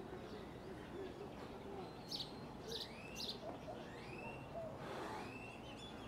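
Faint bird chirps and whistled calls: a few quick high chirps about two to three seconds in, and several short whistles that rise and fall.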